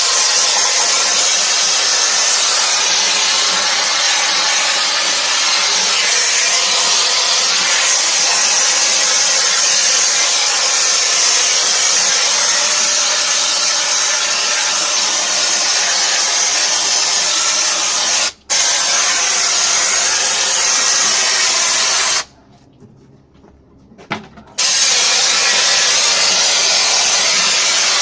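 High-pressure washer spraying water in a steady loud hiss, cutting out for an instant partway through and again for about two seconds near the end before resuming, as the trigger is let go.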